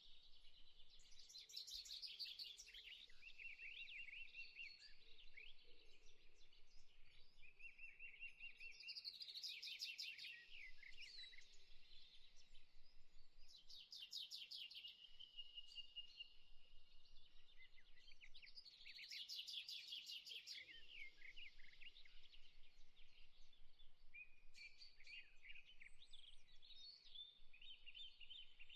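Faint birdsong: several birds chirping, with rapid trills that come back every few seconds.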